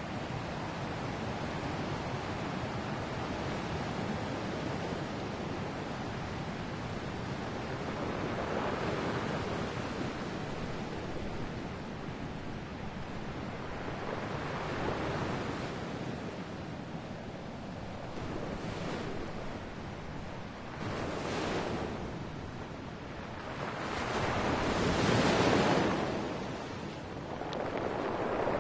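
Ocean waves breaking on a shore, a steady wash of surf that swells and falls every few seconds. The biggest wave breaks about two-thirds of the way through.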